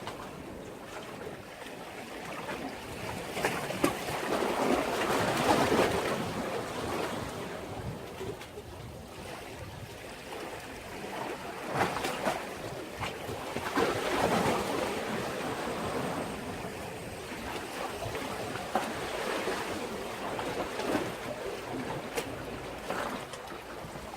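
Sea waves surging in and washing back against a breakwater, swelling loudly about three times.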